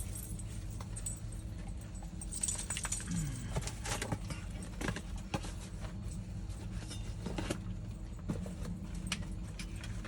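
Light metallic jingling and scattered clicks, like small metal tags or keys shaken, over a steady low hum.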